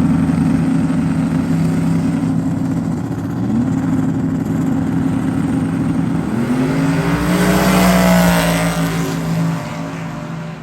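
Drag-racing car engines at full throttle down the track, with the pitch sweeping up again about three and a half and six and a half seconds in. The sound grows loudest around eight seconds in as the cars pass, then fades near the end.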